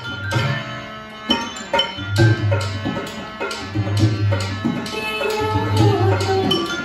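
Indian folk music led by hand drums: deep, booming drum strokes under sharp, ringing higher strokes. A wavering melodic line comes in about five seconds in.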